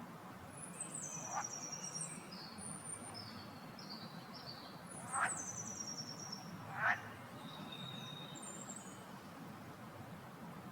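Wild birds calling in forest: high, stepped, descending trilled phrases twice, and three short upward-sweeping calls, the loudest about five and seven seconds in, over a faint steady low background hum.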